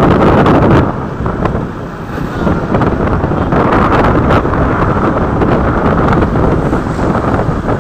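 Loud wind buffeting the microphone of a moving motorcycle, gusty and uneven, easing briefly between about one and two and a half seconds in.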